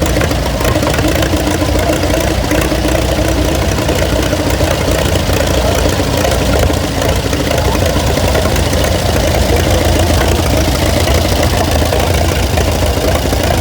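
An engine idling steadily, loud and unbroken.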